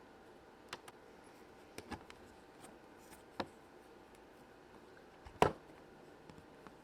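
A handful of sparse, sharp clicks and taps from a plastic Play-Doh cutter being pressed and handled, the loudest a little past halfway, over quiet room tone.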